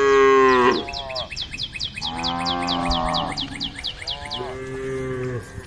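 Cows mooing, calling to the herd: three long moos, the first the loudest. A rapid run of high chirps, about five a second, sounds through most of it.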